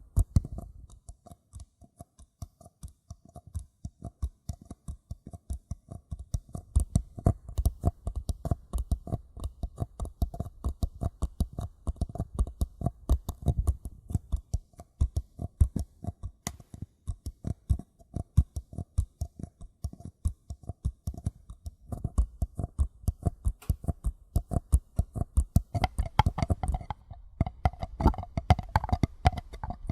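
Paper cups being tapped gently in a quick, steady run of taps, several a second, each with a short hollow ring. About four seconds before the end the taps take on a higher ring.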